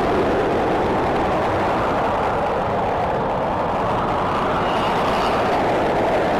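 Jet engine of a hovering fighter aircraft, a loud steady rushing noise that holds without change.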